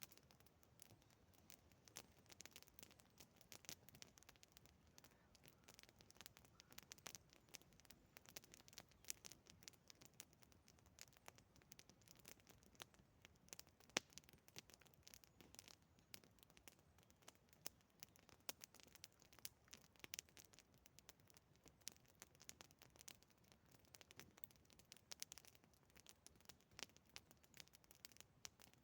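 Campfire of resinous pine wood crackling faintly, with scattered irregular pops; one sharper pop about halfway through.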